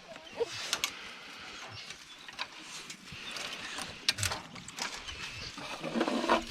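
Dogs moving about in kennel runs: scattered clicks and knocks, a short dog call about half a second in, and a low dog growl starting near the end.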